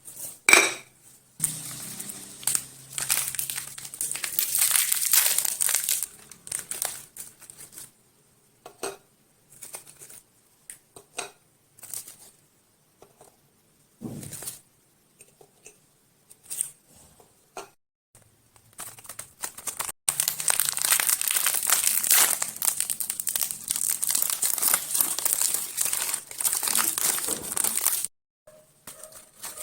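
Plastic snack and candy wrappers crinkling as packets are torn open and handled. Two long stretches of dense crackling, with scattered single clicks and taps between them.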